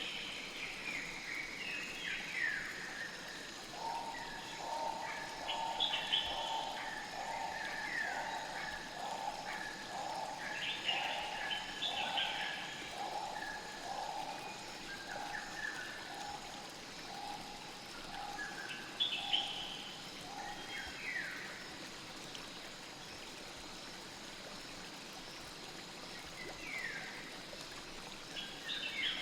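Forest nature ambience: birds chirping with short, falling calls throughout, over a soft steady hiss like flowing water and faint steady high insect-like tones. From about four seconds in until about two-thirds of the way through, a lower call repeats roughly once a second, then stops.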